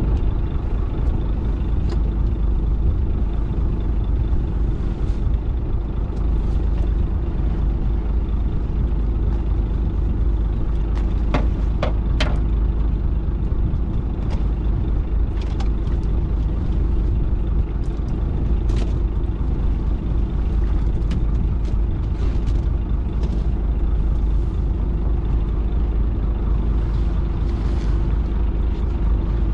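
Fishing boat's engine running steadily with a low drone, with a few brief knocks about halfway through.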